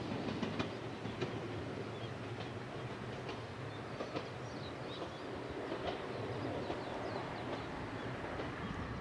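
Ichibata Electric Railway 2100 series electric train running along the track with a steady rumble and scattered clicks from the wheels over the rails.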